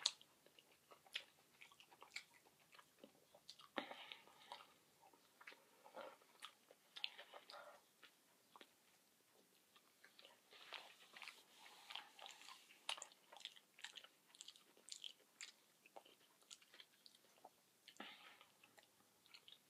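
Faint mouth sounds of someone chewing a buffalo chicken sub sandwich: irregular soft wet clicks and smacks.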